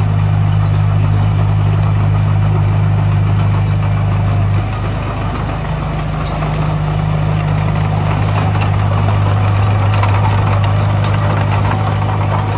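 Diesel engine of heavy earthmoving machinery running steadily with a deep, even hum, easing slightly about four and a half seconds in, with light clattering over it.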